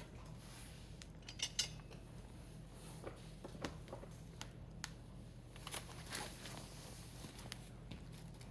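Wood fire crackling, with sharp irregular pops and snaps, the loudest a pair about one and a half seconds in.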